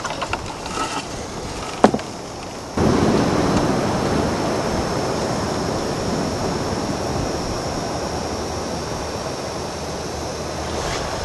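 Faint crackling and a single sharp click, then about three seconds in a loud, even rushing noise cuts in suddenly and eases off slowly.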